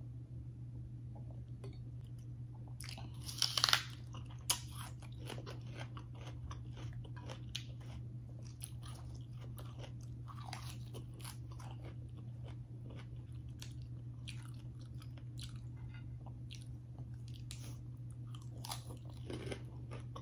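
A person chewing and crunching food close to the microphone, biting into raw spinach leaves, with many small crackles. There is a louder crunch about three and a half seconds in and a sharp knock about a second later. A steady low hum runs underneath.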